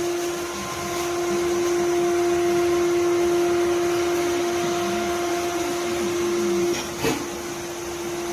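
Robot vacuum cleaner running: a steady motor whine over a hiss of suction, with one short knock about seven seconds in.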